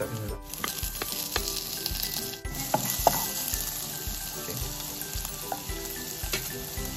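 Sliced chicken breast and hotdog sizzling as they fry in margarine in a nonstick wok. A metal spoon stirs them, scraping and tapping the pan now and then.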